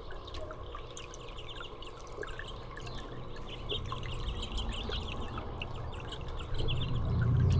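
Many small birds chirping in quick, overlapping short notes. A low rumble grows louder near the end.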